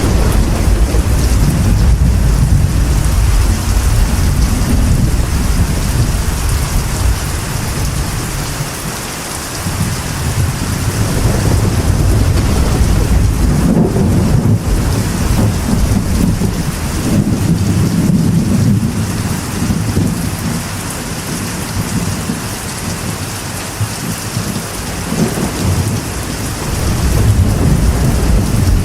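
Steady rain drumming on a metal roof, with rolls of thunder that swell and fade several times underneath, loudest in the first few seconds, through the middle and again near the end.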